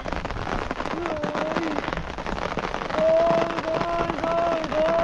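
Rain falling steadily, with many drops pattering on surfaces. Over it, a high-pitched voice calls in drawn-out, fairly level tones, once about a second in and then in a longer run over the last two seconds.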